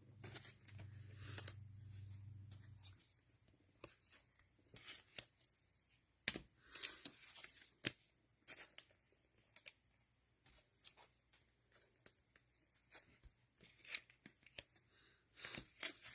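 Faint, scattered rustles and clicks of trading cards being handled and sorted by hand, with a low hum in the first few seconds.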